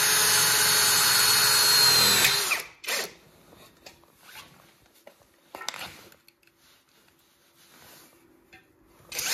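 Power drill driving a screw, a steady motor whine for about two and a half seconds before it stops, followed by faint clicks and handling of parts.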